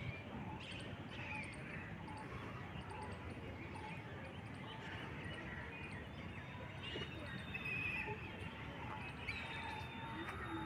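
Steady outdoor background noise with a few short, high chirps scattered through it.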